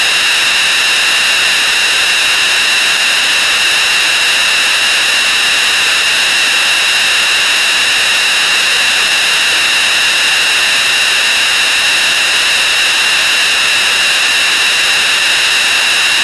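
A dense mass of sound effects played at very high speed, merged into a loud, unchanging hiss with a steady high ringing tone in it.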